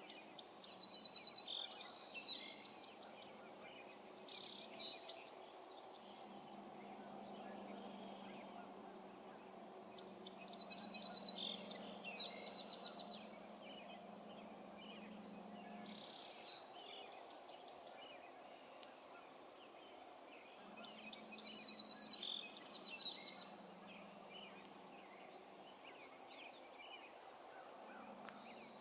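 A songbird singing the same short song three times, about ten seconds apart, each song opening with a quick rapid run of high notes. A faint steady low hum runs underneath, dropping out for a few seconds midway.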